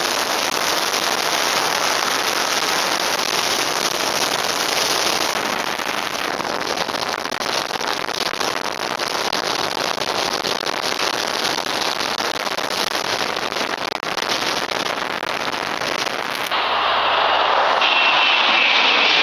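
Heavy wind noise buffeting the microphone of a Contour action camera: a dense, crackling rush. About 16 seconds in it cuts abruptly to a steadier, narrower rushing noise.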